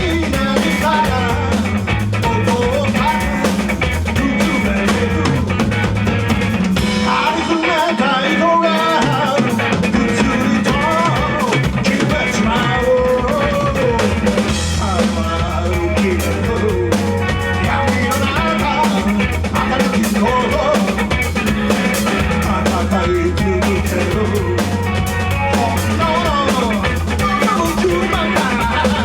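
Live rock band playing, with a driving drum kit, a steady bass line and a wavering lead melody over it; the bass drops out briefly about seven seconds in, then comes back.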